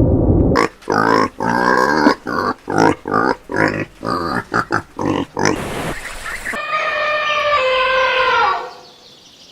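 Pig grunting in a quick run of short calls, about two to three a second. About seven seconds in a different long held tone takes over, sliding slowly down and fading out.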